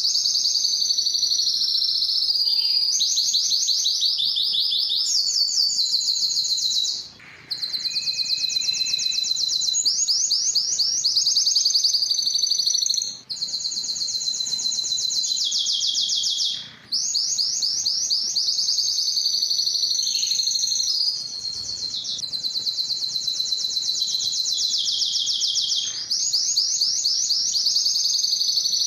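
Spanish timbrado canary singing a long, continuous song of fast rolling trills and rapidly repeated notes, broken by a few brief pauses between phrases.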